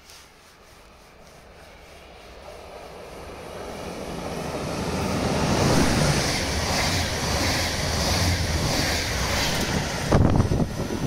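Intercity 2 double-deck passenger train passing through at speed. Its rolling noise builds steadily for about six seconds and stays loud as the coaches go by. Near the end, gusty wind buffets the microphone.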